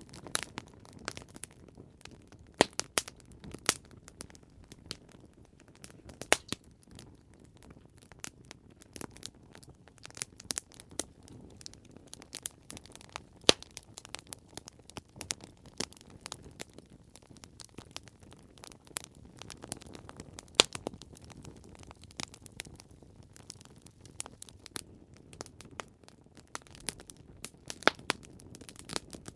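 Campfire crackling: irregular sharp pops and snaps of burning wood, a few much louder than the rest, over a soft steady hiss of flame.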